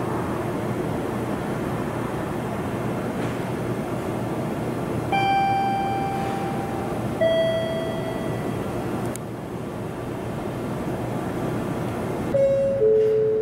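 Steady rumble of a train at a railway station platform, fading after about nine seconds. About five and seven seconds in come two long, level tones, the second lower than the first. Near the end a descending two-note station chime sounds.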